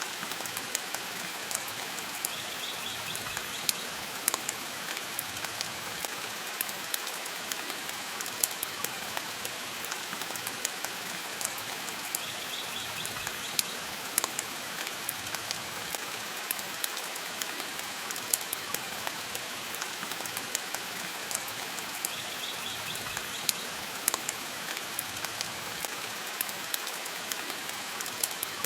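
Steady rain hiss mixed with the irregular sharp crackles and pops of a wood fire burning in a fireplace.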